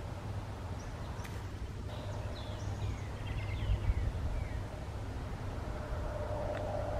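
A songbird gives a few short, high, falling chirps about two to three seconds in, over a steady low rumble and a faint hum.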